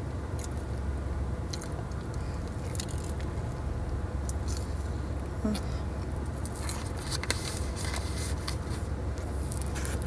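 A person chewing a mouthful of potato-cube-coated cheese corn dog, with many short, crisp crunches scattered throughout. Under it runs a steady low hum from the car's air conditioning blowing.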